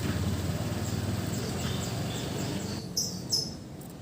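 Siri-siri bird chirping: a quick run of short, falling high notes, then two louder calls near the end. Under it is a low steady hum that stops about three seconds in.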